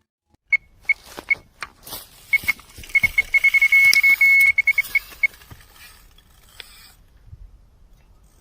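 Electronic carp bite alarm beeping at a high pitch: a few single beeps, then a fast run of beeps lasting about three seconds as line is pulled from the rod, the sign of a carp taking the bait. Clicks and rustling around it.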